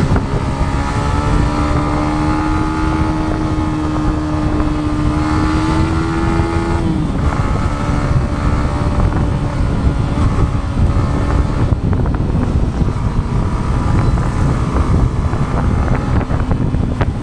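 Yamaha MT-15's single-cylinder engine running under way at road speed, its note rising slightly for several seconds and then dropping away about seven seconds in, with wind rushing over the microphone.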